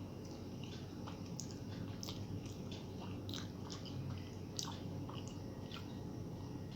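A person chewing and biting a mouthful of noodles and egg masala, with irregular wet mouth clicks and smacks.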